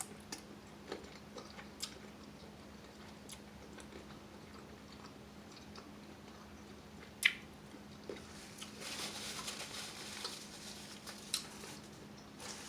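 Close-miked chewing and mouth sounds of someone eating sautéed jumbo shrimp and scallops, with scattered small clicks, one sharper click about seven seconds in, and a stretch of hissier mouth noise a couple of seconds later.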